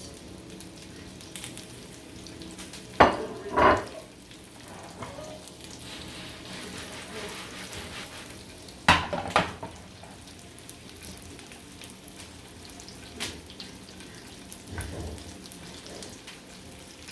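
Breaded chicken strips frying in hot oil, a steady sizzle. A few sharp clatters of utensils or a pan cut through it, two about three seconds in and a louder one about nine seconds in.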